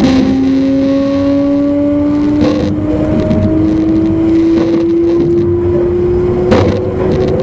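Traction motor and inverter whine of an E259 series Narita Express motor car, heard from inside the car. The whine steps down in pitch right at the start, then rises slowly and steadily as the train picks up speed. Under it is rumbling running noise with a couple of sharp clicks from the rails.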